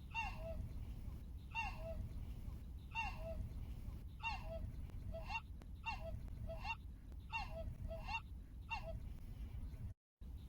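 A bird calling over and over, each call a short falling note and some of them paired into a two-note 'cu-ckoo'-like phrase, with a call every second or so. A steady low rumble runs underneath.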